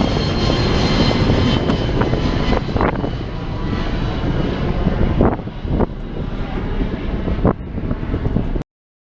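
Jet airliner passing, its engines a loud rumble with a high whine that fades after about three seconds. The sound cuts off abruptly near the end.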